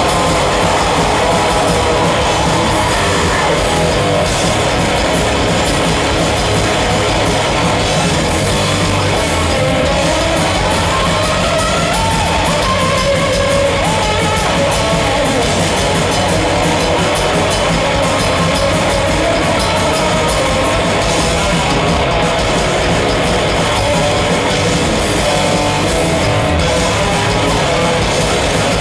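A heavy metal band playing live at a constant high volume, with distorted electric guitars and a drum kit.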